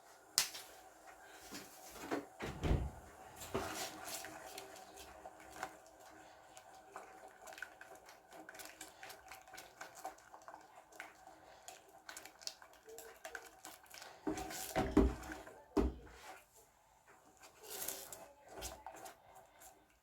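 Kitchen handling sounds: scattered clinks and knocks of utensils against a pot, with louder thumps about 3 and 15 seconds in.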